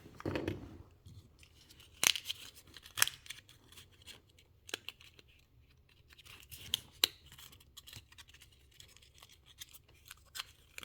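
Hands handling the small pieces and packaging of a miniature craft kit: scattered light clicks, snips and rustles, with sharper clicks about two, three and seven seconds in.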